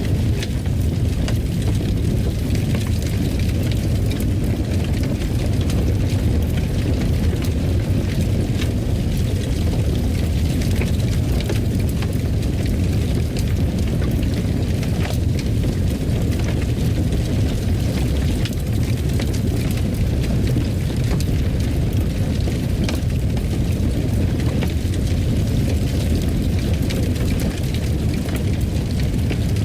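A wood fire burning in a fireplace: a steady low rumble with scattered sharp crackles and pops.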